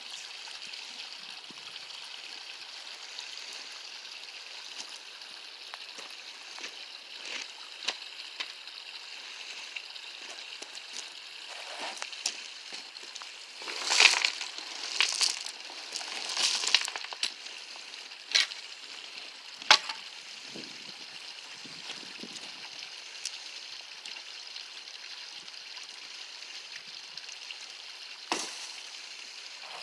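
Steady hiss of runoff water trickling in a stream channel. Near the middle, a shovel scrapes and strikes gravel and rock in a cluster of sharp sounds, with a few single sharp clinks later.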